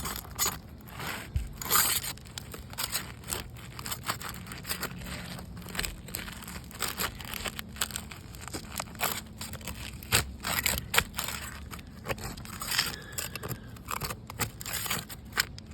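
Small crowbar scraping and prying under asphalt roof shingles, with irregular crackles, scrapes and tearing as the shingle rips. The shingle is brittle and tears instead of lifting.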